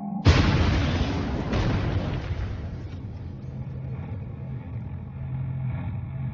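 Film sound effects of a big rig truck slamming into a car. A loud crash comes about a quarter second in, with a second impact about a second later, and the noise dies away over a few seconds into a steady low engine sound.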